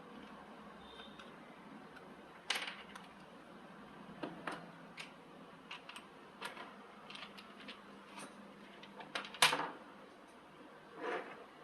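Irregular metal clinks and knocks from metal parts and tools being handled, a dozen or so, the loudest about nine seconds in.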